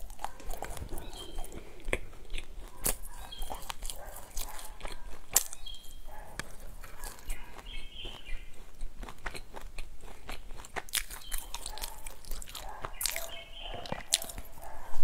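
Close-up chewing and biting of a flaky pastry, with many short crisp crunches and wet mouth sounds.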